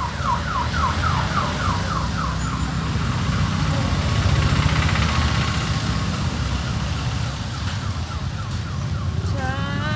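Electronic siren yelping in fast repeated sweeps, about four a second, stopping about three seconds in, over a steady low rumble of street traffic engines.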